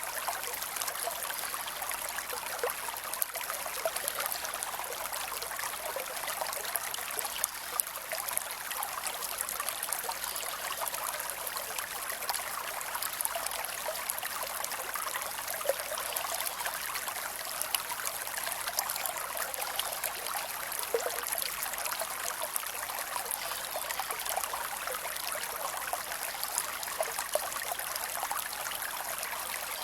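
Creek water running steadily over rocks, a continuous trickling and splashing with little low rumble.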